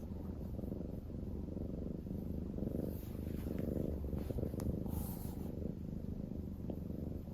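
A black house cat purring steadily, with a brief soft rustle about five seconds in.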